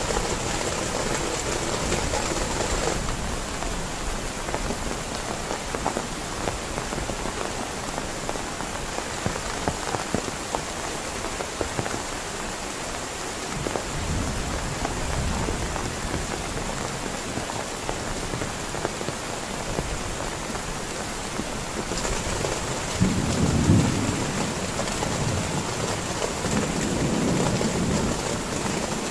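Heavy rain falling steadily, with low rumbles of thunder about two-thirds of the way through and again near the end.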